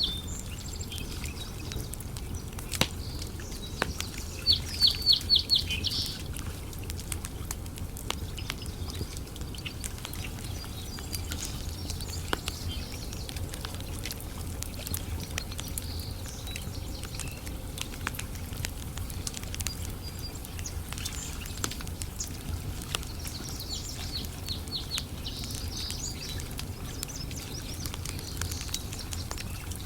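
Campfire crackling, with scattered sharp pops throughout. A bird calls a quick run of high chirps about five seconds in, and fainter chirping comes again later.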